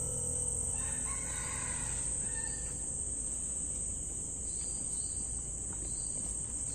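Insects droning steadily at a high pitch, with a faint bird call about a second in, over a low steady rumble.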